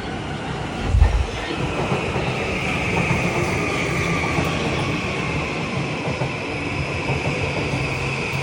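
Electric commuter train running along the platform at a station, a steady rumble of wheels on rails with a high whine over it. A low thump sounds about a second in.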